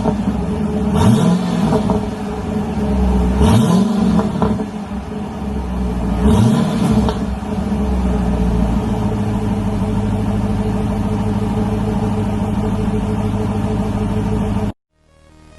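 2021 Dodge Durango R/T's 5.7-litre Hemi V8 with the mid muffler deleted. It is blipped three times, each rev rising and dropping quickly back, then it idles steadily until the sound cuts off abruptly near the end.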